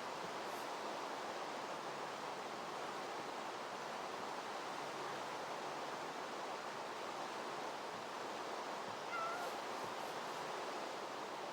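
Steady hiss of falling rain, with one short high chirp about nine seconds in.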